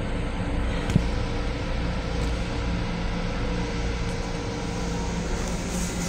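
Steady rumble and hum of an MTA Long Island Rail Road M7 electric railcar, heard from inside the car, with a single sharp click about a second in.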